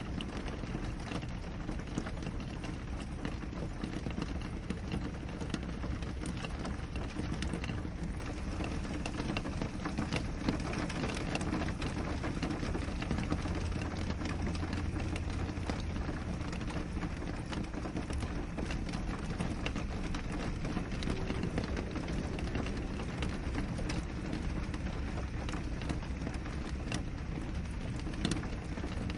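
Rain falling on a window: a steady hiss of rainfall with many separate drops ticking against the glass, over a low rumble.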